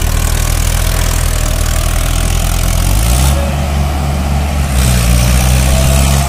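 Mahindra 555DI tractor's diesel engine running steadily, its engine speed picking up a little about three seconds in.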